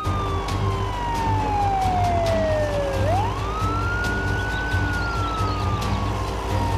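A wailing siren over a steady low hum. Its pitch falls slowly for about three seconds, sweeps quickly back up, and then begins falling slowly again.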